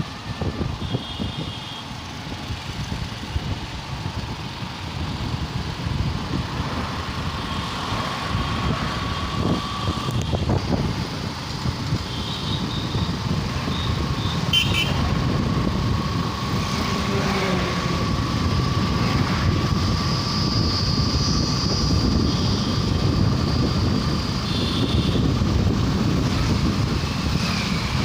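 Riding a motorcycle through city traffic: steady engine and road rumble with wind buffeting the microphone, and short high-pitched horn beeps from traffic now and then.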